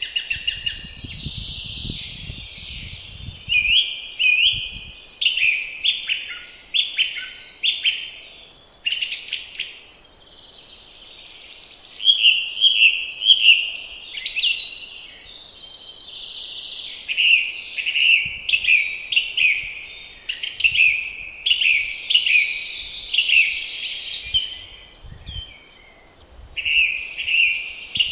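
Several songbirds singing in a spring chorus, short phrases repeated over and over with little pause. Low rumbles of wind on the microphone come in gusts near the start and again in the latter part.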